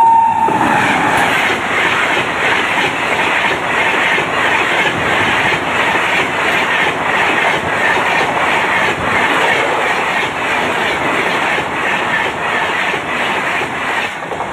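Electric-hauled passenger express passing close at speed, with a steady rumble of coaches and a rhythmic clickety-clack of wheels over rail joints. The locomotive's horn blast cuts off about half a second in, and the train noise fades at the very end as the last coach clears.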